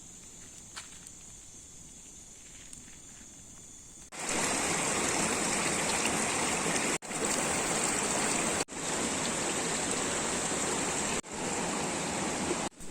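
Faint, steady high-pitched insect chirring, then about four seconds in, loud, steady rushing water sets in. The water sound breaks off sharply several times, split by cuts into separate stretches.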